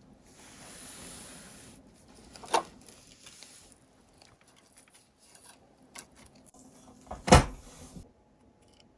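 Small hard parts being handled on a workbench: a soft rub for the first two seconds, scattered light clicks, then a sharp knock about seven seconds in.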